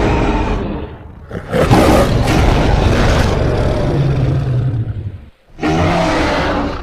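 Designed creature roars for a robot Giganotosaurus, mixed from Giganotosaurus and lion roar recordings. One roar fades out about a second in, a long roar follows, and a shorter roar comes near the end and is cut off abruptly.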